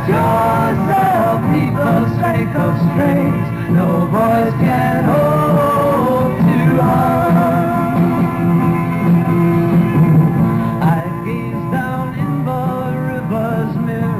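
Live rock band recording: a singer over electric guitars and bass, with guitar lines coming forward near the end.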